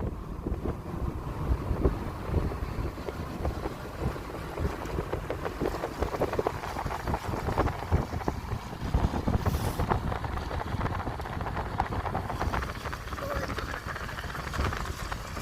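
Wind buffeting the microphone: a low, gusty rumble that swells and dips unevenly, with a fainter hiss above it.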